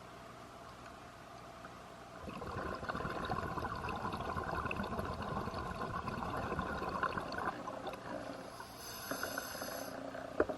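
Scuba diver breathing through a regulator underwater: a long exhalation of bubbles crackling and burbling from about two seconds in, then a hissing inhalation through the regulator near the end, followed by a single sharp click.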